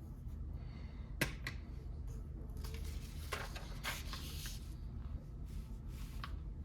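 Lego pieces being handled and fitted together: a sharp click about a second in, then scattered rustling and light clicks, over a low steady hum.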